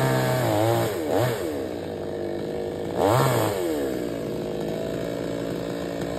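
Two-stroke chainsaw engine running, revved up and back down twice, about a second in and again about three seconds in.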